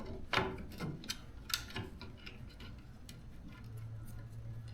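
Scattered small clicks and taps of wires and plastic parts being handled and fitted inside a garage door opener's housing during reassembly.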